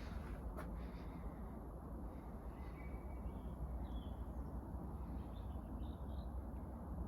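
Faint, brief bird chirps in a spring forest, heard over a steady low rumble, with a single click near the start.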